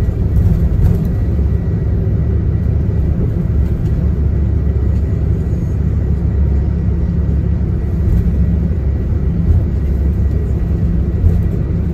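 Tour coach's engine and road noise heard from inside the passenger cabin while driving at a steady pace: a constant low rumble with no gear change or braking.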